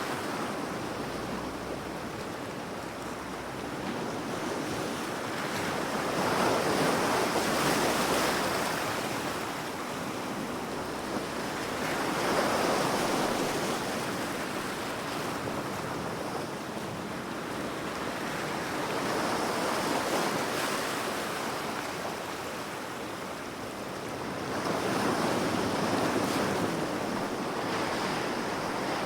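Ocean waves breaking and washing on a shore, swelling and easing about every six seconds, with a steady hiss of surf between them.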